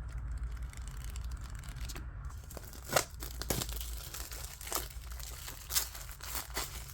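Packaging being torn open and crumpled by hand as manga is unboxed: a continuous rustle broken by several sharp crackles, the loudest about three seconds in.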